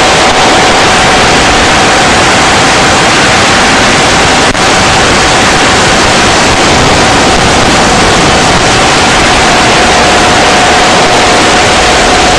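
A 6-inch FPV quadcopter's motors and propellers running on 6S power in flight: a loud, steady rushing hiss with a held whine that drops slightly near the end. There is a brief dropout with a click about four and a half seconds in.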